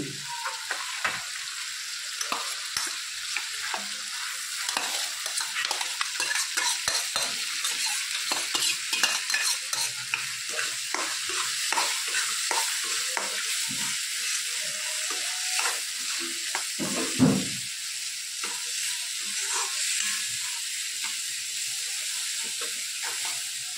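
Spiced onion-tomato masala sizzling in a steel kadai, with a steel spoon stirring and scraping the pan as boiled potato is mixed in. There are many small clicks of the spoon on the metal, and one louder knock about seventeen seconds in.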